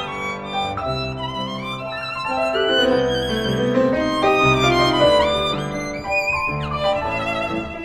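Instrumental music: a solo violin plays a melody with vibrato and a few pitch slides over a held accompaniment.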